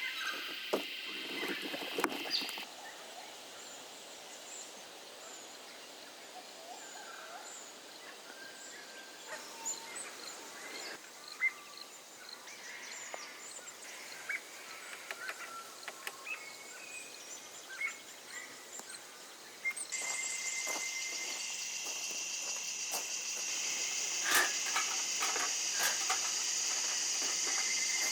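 Short, scattered bird calls and chirps over quiet bush ambience, with a few light knocks. About twenty seconds in, the sound changes abruptly to a steady, high-pitched insect chorus that keeps going.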